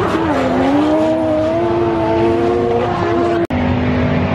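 A drift car's engine held at high revs on track: its pitch drops sharply right at the start, then holds steady and loud. About three and a half seconds in, the sound cuts off abruptly and comes back at once at a steadier, lower pitch.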